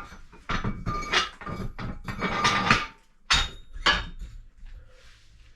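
Barbell and weight plates clattering and scraping as they are handled, then two sharp metal clanks about three and a half and four seconds in.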